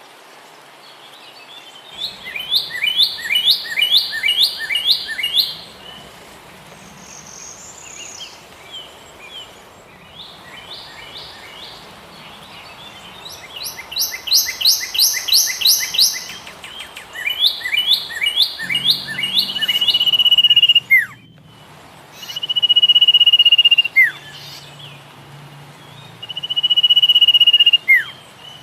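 A bird singing: bouts of rapid, repeated descending chirps, then three long steady whistles, each ending in a quick downward slide, over a steady background hiss.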